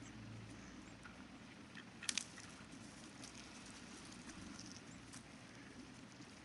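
Faint riverside ambience: a soft, even wash of water noise with scattered small ticks, and a sharp double click about two seconds in.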